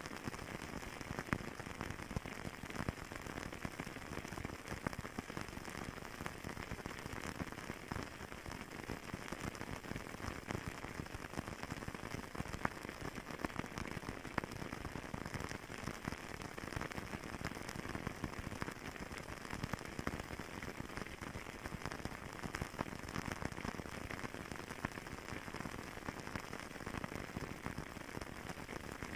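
Fireplace crackling steadily: a dense bed of small pops and snaps over a soft hiss, with a few sharper pops now and then.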